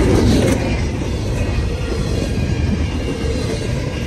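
Double-stack intermodal container train rolling past at close range: a steady rumble of freight-car wheels on the rails.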